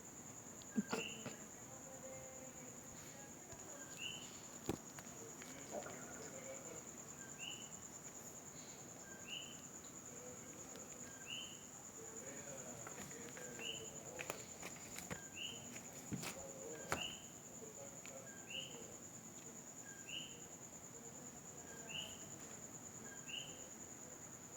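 Faint steady insect trill, with a short high chirp repeating about every second and a half and a few scattered clicks and taps.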